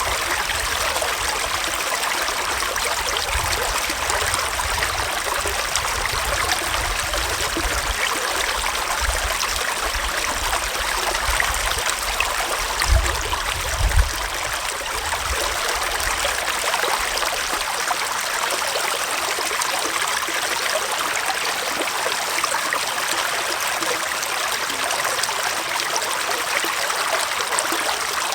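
Gentle forest stream flowing, a steady rushing and trickling of water. A low rumble comes and goes through the first half, with two short low thumps about halfway through.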